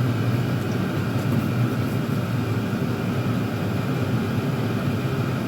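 Several Chinese diesel air heaters running together at full output, with no intake silencers fitted: a steady, even hum and rush of their combustion blowers and hot-air fans.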